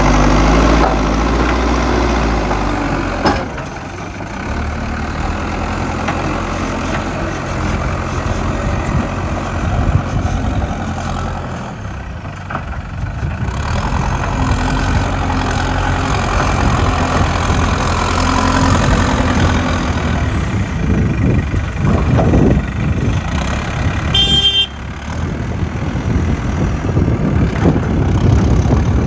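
Heavy diesel machinery of a JCB excavator loading a tipper truck running steadily, its loudness rising and falling as it works. A short high-pitched beep sounds about three-quarters of the way through.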